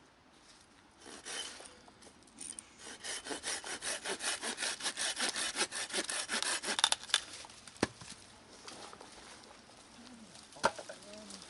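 Hand saw cutting through a piece of firewood in quick back-and-forth strokes, about three or four a second, stopping about seven seconds in. It is followed by a couple of sharp knocks.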